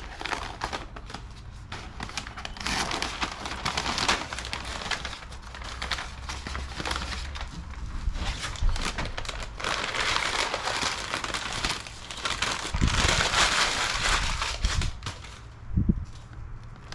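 Masking tape and paper being peeled off and crumpled by hand: an irregular crinkling and crackling that swells and fades, with a few dull handling thumps.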